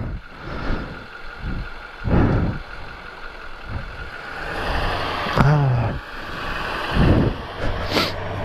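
Kawasaki ZX6R sport bike's inline-four engine running under the rider, swelling up and easing off a few times as the throttle is worked, over a steady rush of road and wind noise.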